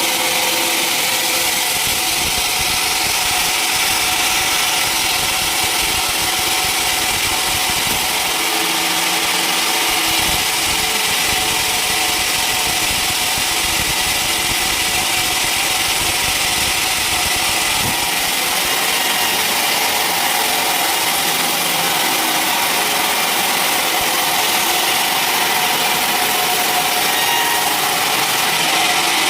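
Sawmill running steadily, its engine going and the saw blade cutting through wood, a constant hiss throughout.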